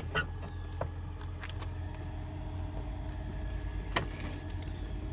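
A few light clicks and knocks of an intake heat shield being worked into place in a car's engine bay, over a steady low hum.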